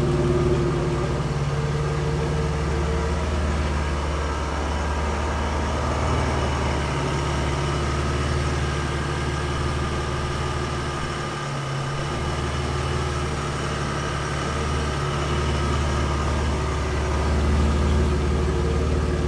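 Supercharged V6 Camaro idling steadily through an aftermarket exhaust with single tips, shortly after a cold start.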